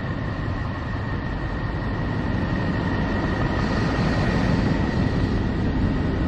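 Sonified space recording of Neptune, Voyager plasma-wave data turned into sound: a dense, deep rumbling drone with a thin steady high tone above it, slowly growing louder.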